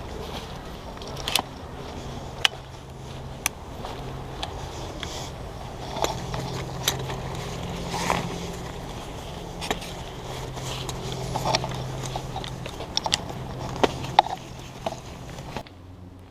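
Footsteps of a person walking, with irregular crunching clicks and scrapes under each step, over a steady low hum. The sound drops off suddenly near the end.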